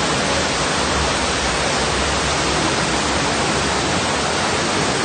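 Floodwater rushing: a steady, dense rushing noise with no breaks.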